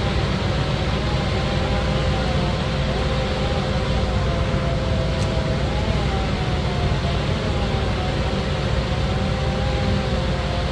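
Motorized tree-cutting equipment running steadily: a constant low rumble with a steady hum and a second whine that wavers up and down in pitch.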